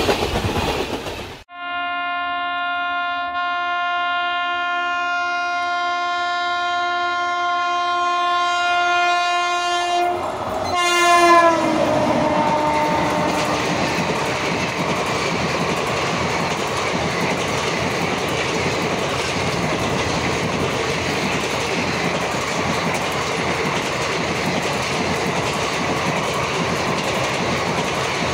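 WAP7 electric locomotive sounding its air horn in one long, steady blast of about nine seconds as it approaches. The horn drops in pitch as the locomotive passes and fades within a few seconds. The coaches of the express then rush past at speed with a steady clatter of wheels on the rail joints.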